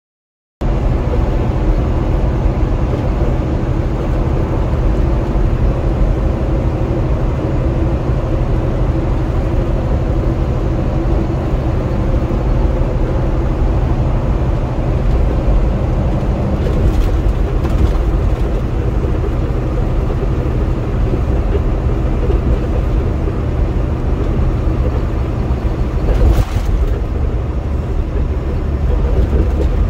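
Semi truck cruising on the highway, heard inside the cab: a steady low engine and road drone with a constant hum. It starts abruptly just over half a second in.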